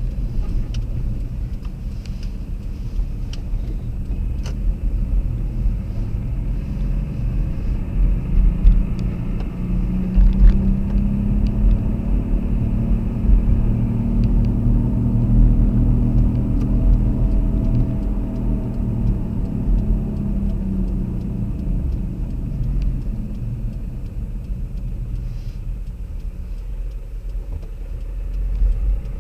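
A car driving, with a steady low rumble of engine and tyres; the engine note climbs from about a quarter of the way in, peaks around the middle and eases off again.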